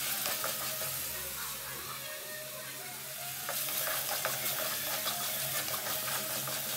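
Shallots, green chillies, garlic, ginger and curry leaves frying in coconut oil, sizzling softly while a spoon stirs and scrapes against the pan. The stirring eases off for a second or two near the middle and then picks up again.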